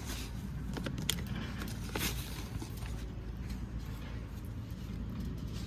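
Engine running steadily at a low hum, with a few sharp clicks and knocks between about one and two seconds in.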